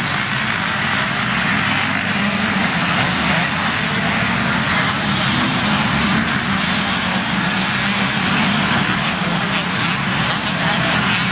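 Motocross bike engines running hard on the track: a loud, steady, unbroken engine noise.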